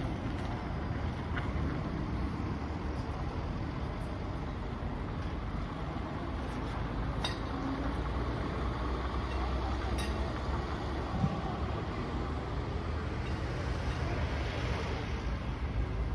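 Garbage truck's diesel engine running steadily, with a few light clicks and a short thump about eleven seconds in.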